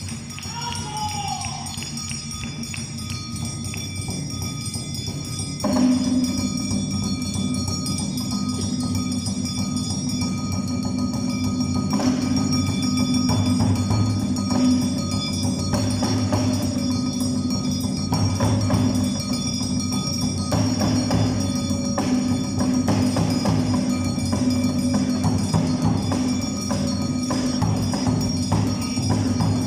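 Live Awa Odori music: metal hand gongs ringing continuously over drums and other percussion. It jumps suddenly louder about six seconds in, and stays loud and steady after that.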